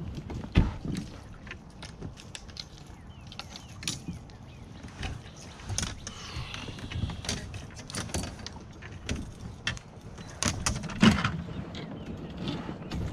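Irregular clicks and knocks of fishing gear being handled in a plastic fishing kayak, with two louder knocks, one near the start and one near the end.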